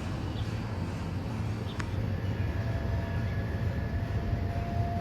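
Steady low rumble of outdoor background noise, with a faint thin tone coming in about halfway through and a brief click just before it.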